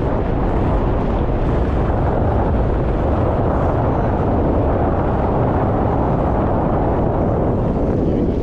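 Loud, steady road and wind noise of a car on the move, heard inside the cabin.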